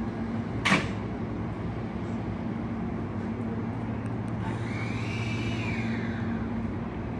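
Steady low hum of a Hankyu 1000-series electric train standing at a station platform. A single short, sharp knock comes about 0.7 s in and is the loudest sound. A high whine rises and falls from about four and a half to six seconds in.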